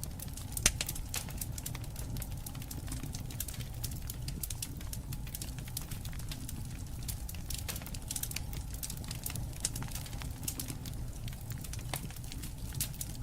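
Wood campfire crackling, with frequent small sharp pops over a steady low rumble of burning; one louder pop under a second in.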